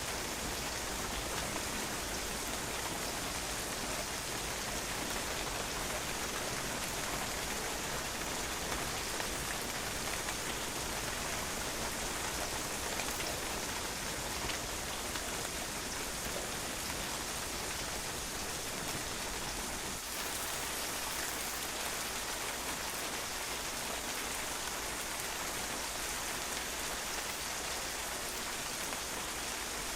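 Steady rain falling on a patio, drops pattering on the hard surface in an even, continuous hiss.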